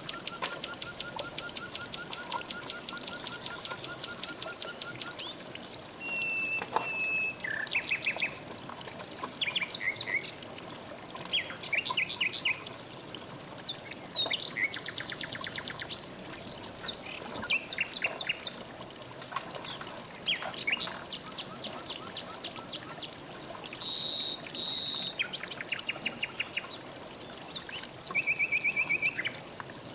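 Several songbirds singing and calling at once, in rapid trills and series of repeated high notes that overlap, over the steady hiss of flowing river water.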